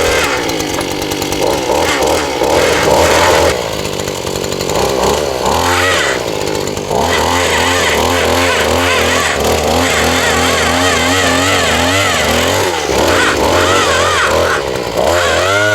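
Gas-powered post hole auger's small engine running loud and steady while boring a hole, its pitch wavering as the load on the auger changes.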